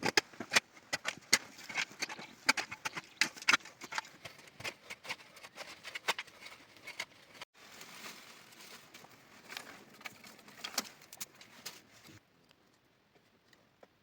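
A quick, irregular run of sharp clicks and taps that breaks off abruptly about halfway, resumes, and stops about two seconds before the end.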